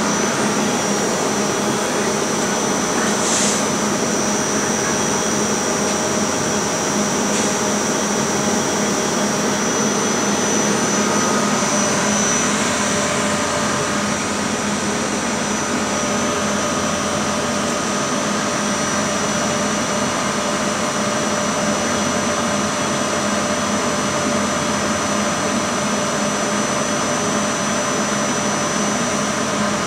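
Steady mechanical hum and rush of an Indian Railways express train pulling slowly out of a station, heard from its open coach doorway, with a steady whine over it.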